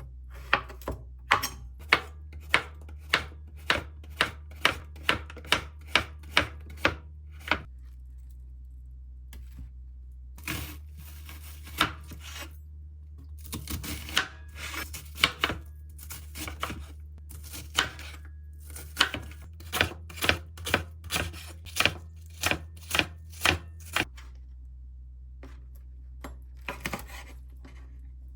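Knife chopping food on a cutting board in quick, even strokes of about three a second, in several runs broken by short pauses.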